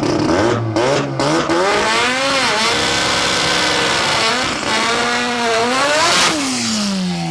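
Rear-wheel-drive drag car accelerating hard down the strip, its engine pitch climbing, dropping at a gear change and climbing again, then falling away steadily near the end as the car passes and goes on down the track.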